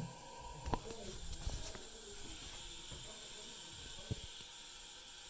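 Steady hiss of water running through the fill valve of a 2007 Kohler Wellworth toilet tank as it refills after a flush, with a few light knocks at about one, one and a half and four seconds in.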